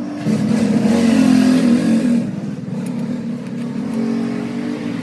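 Motor vehicle engine revving, loudest for the first two seconds, then settling to a lower steady run.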